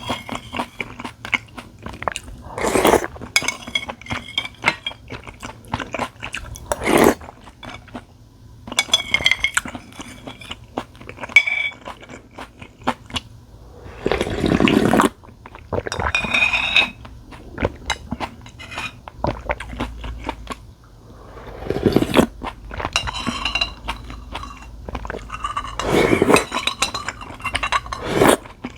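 Eating sounds: utensils clinking and scraping against bowls, some clinks ringing briefly, mixed with chewing and crunching of tteokguk and japchae.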